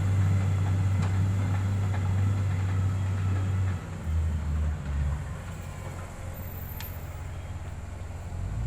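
Heavy road-equipment diesel engine running with a steady low drone. It eases off about four seconds in, wavers briefly, stays lower, and picks up again near the end.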